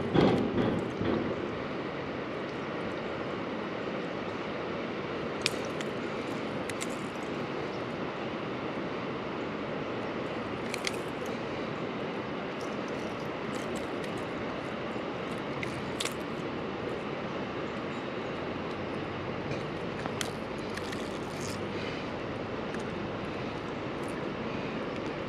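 Steady rushing of a small creek's flowing water. A louder burst comes at the very start, and a few faint sharp clicks are scattered through.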